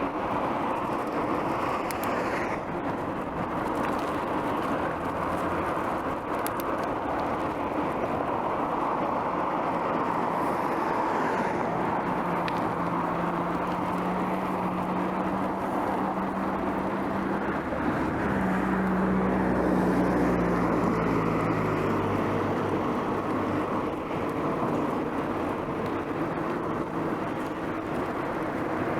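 Steady wind and road noise heard from a bicycle while riding along city streets, with the low hum of a motor vehicle's engine coming up in the middle and fading a few seconds later.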